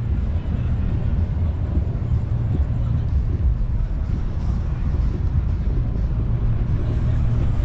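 Steady low rumble of wind buffeting the microphone of a moving bicycle, with road noise underneath.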